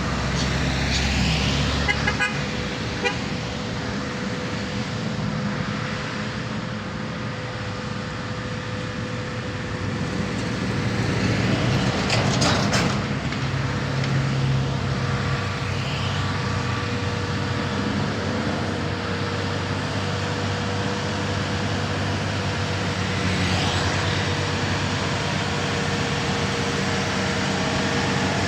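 Diesel truck engines running amid road traffic, with a vehicle horn tooting.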